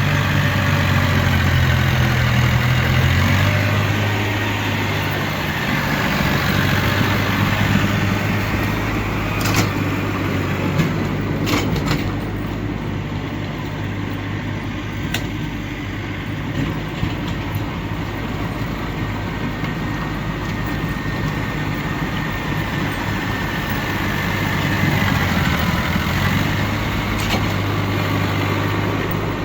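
Engine of snow-clearing machinery running steadily, its note shifting a few seconds in, with a few sharp knocks about halfway through.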